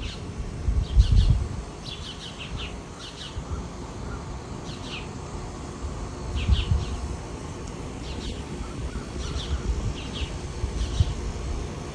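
Songbirds chirping outdoors: short, quick, falling chirps in twos and threes, repeating about every second, with a few low rumbles underneath.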